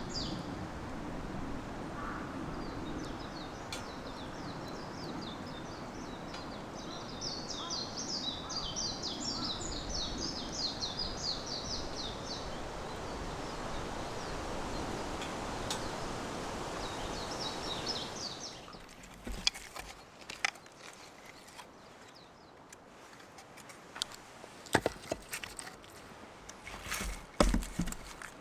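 Outdoor ambience: a steady rushing noise with birds chirping, which cuts off suddenly about 18 seconds in. After that come scattered sharp knocks and cracks of wood being worked, getting busier near the end.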